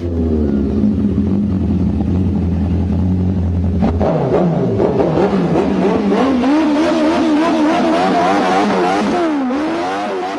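Motorcycle engine running steadily, then revved up and down repeatedly from about four seconds in.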